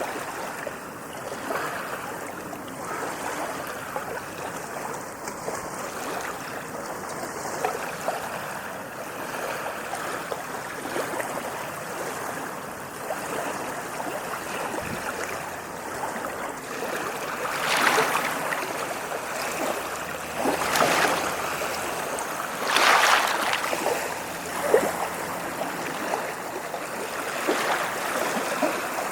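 Small ocean waves washing and lapping against the shore, with a constant fizzing wash of water. A few louder waves break and surge in the second half.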